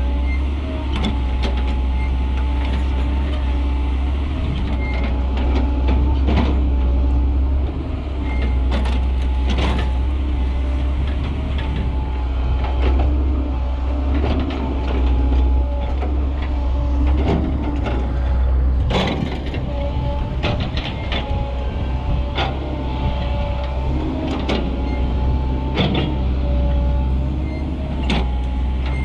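Mercedes Atego dump truck's diesel engine running as the truck is driven, a steady low rumble with a wavering whine above it, and frequent sharp knocks and rattles.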